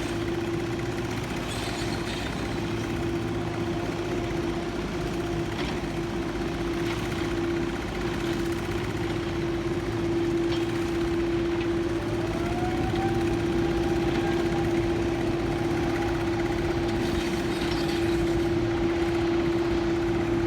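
An engine running steadily with a constant hum. A second, higher tone rises in pitch about twelve seconds in and then holds.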